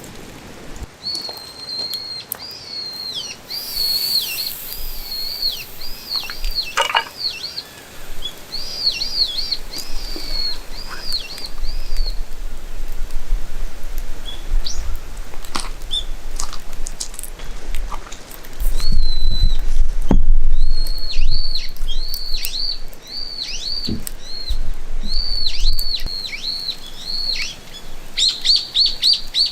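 A songbird singing long runs of rapid, high whistled notes that dip and rise, with a pause in the middle. Scattered clicks and a low rumble come in partway through.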